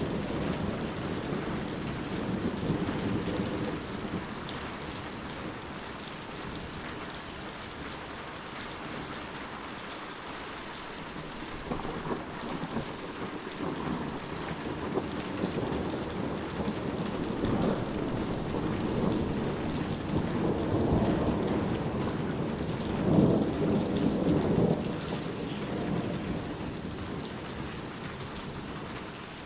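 Steady rain falling, with low thunder rumbling in several slow swells through the middle and latter part, the loudest about three-quarters of the way in.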